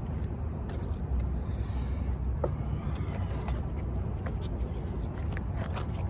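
Low steady rumble of a vehicle engine, with scattered small clicks and a brief rustle about two seconds in.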